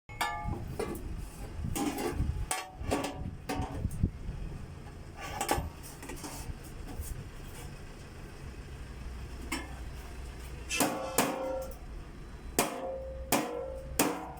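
Sheet-metal HVAC duct being hammered and handled: irregular clusters of sharp metallic knocks with short ringing, bunched near the start and again after about eleven seconds, over a low steady hum.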